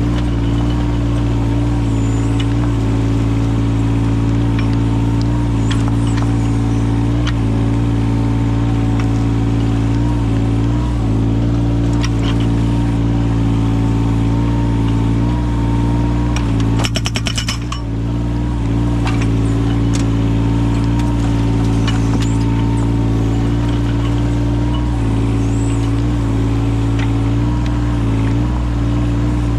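Yanmar mini excavator's diesel engine running steadily under hydraulic work, its pitch dipping briefly now and then under load. Occasional sharp knocks sound through it, and a quick run of crackling clicks comes about 17 seconds in.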